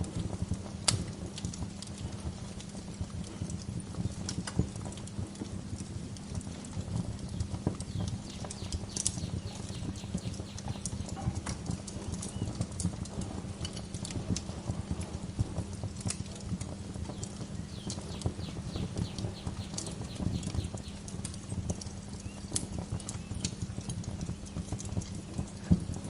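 Wood fire crackling in a fireplace: a dense low crackle with scattered sharp pops.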